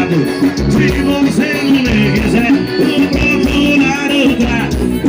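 Forró band music with singing over a steady bass-drum beat of about two thumps a second.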